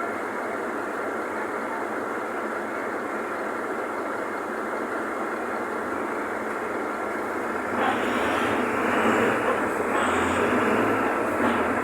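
Mercedes-Benz OF-1519 city bus running, a steady rumble of engine and road noise with a faint steady whine. About eight seconds in it suddenly grows louder and fuller.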